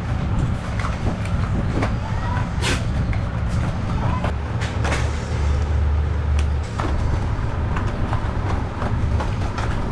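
Workshop machinery running with a steady low hum, with scattered clicks and knocks over it and a louder stretch of the hum about halfway through.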